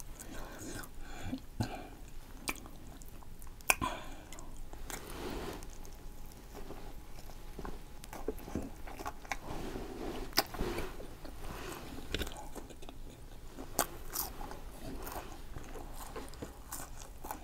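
Close-up biting and chewing of a Philly cheesesteak sandwich: soft wet chewing with scattered sharp clicks of the mouth.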